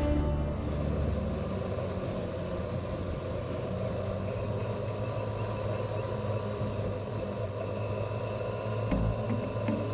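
An engine running steadily at low revs, with a short low bump about nine seconds in.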